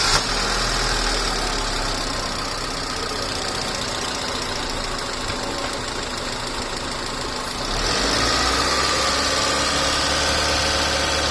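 Honda City car engine, fitted with a K&N air filter, idling steadily just after starting; about eight seconds in, the engine speed steps up and holds at a higher, louder pitch.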